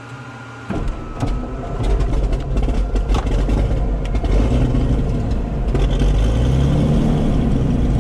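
Cirrus SR22's six-cylinder piston engine starting: it catches suddenly under a second in, builds over a couple of seconds and settles into a steady loud run.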